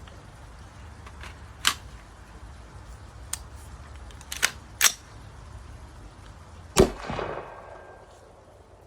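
Gunshot fired at a drink can: a few light clicks, then one sharp shot near the end, followed by a brief fading rush.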